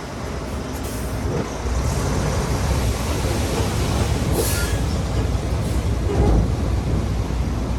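Heavy diesel earthmoving machinery, likely a crawler bulldozer, running steadily with a low rumble, its steel tracks squealing briefly about four and a half seconds in.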